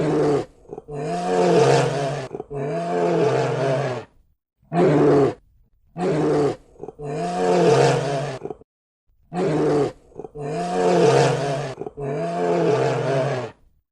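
A large animal's deep calls: a short call, then two longer ones, the same set repeating about every four and a half seconds.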